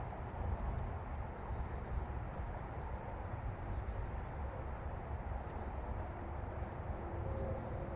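Steady low rumbling outdoor noise of a walk, with faint held tones coming in near the end.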